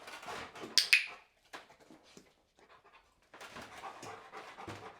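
Rottweiler panting, which stops for about two seconds and then starts again. Two sharp knocks close together, about a second in, are the loudest sounds.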